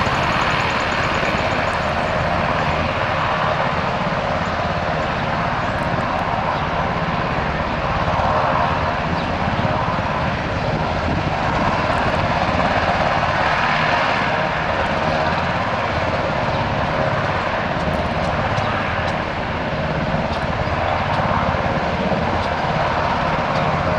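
Army National Guard helicopter's engines and rotor running loudly and steadily.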